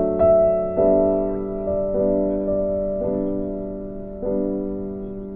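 Background music: slow, gentle piano playing sustained chords that change about once a second and fade between changes.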